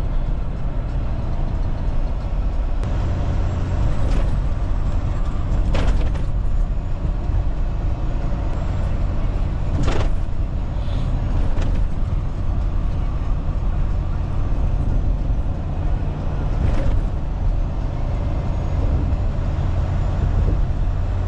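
Semi truck cab on the highway: steady low engine and road rumble, broken by four sharp knocks and rattles as the truck hits potholes.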